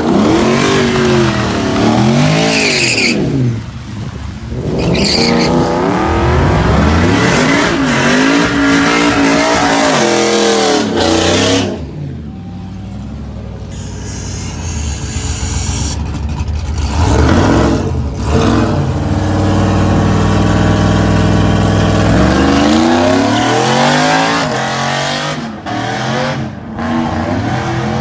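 Drag-racing truck engines revving up and down again and again, with a stretch of steady high revs in the middle.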